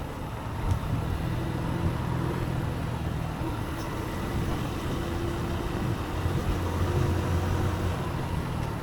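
Motorcycle engine running steadily on the move, its low note growing a little stronger about six seconds in.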